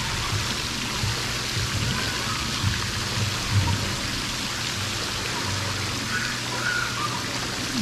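Steady rush of running water, with music playing underneath.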